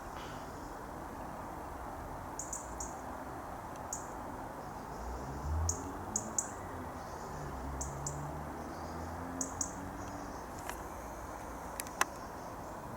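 Small birds chirping, short high chirps in groups of two or three every second or so, over a steady background rumble.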